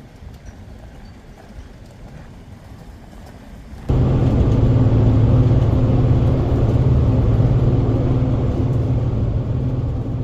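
Low, quiet outdoor background, then about four seconds in a loud, steady engine drone with a constant low hum cuts in abruptly and holds without changing pitch.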